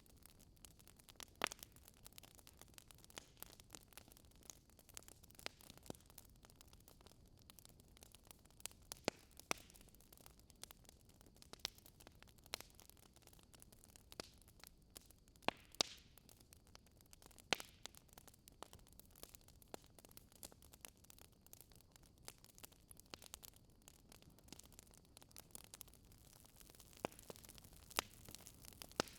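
Wood fire crackling: irregular sharp pops and snaps, a few seconds apart, over a faint steady hiss.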